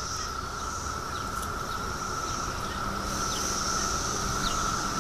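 A chorus of periodical cicadas singing: a steady, high drone that swells a little about halfway through.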